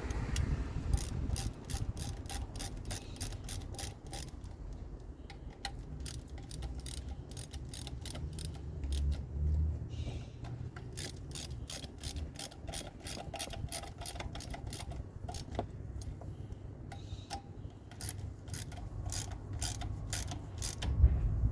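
Hand socket ratchet clicking in repeated runs of quick, evenly spaced clicks, with short pauses between the runs, as bolts are worked on the engine.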